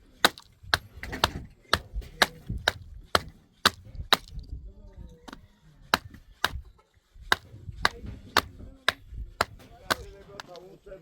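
Wood being chopped with quick, regular blows, about two a second, with a pause of a couple of seconds in the middle.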